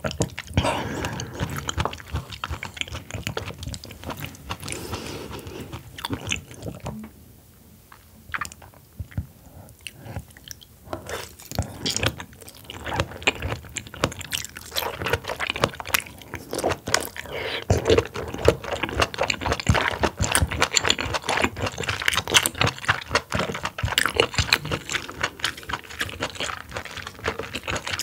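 Close-miked chewing of oysters, dense wet mouth clicks and crackles, quieter for a few seconds about seven seconds in.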